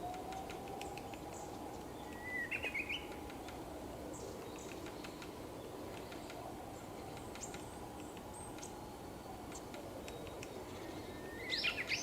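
Small woodland songbirds calling: a short chirping phrase about two seconds in and a louder one near the end, with faint high ticks between. Under them a low, faint tone slowly rises and falls in pitch.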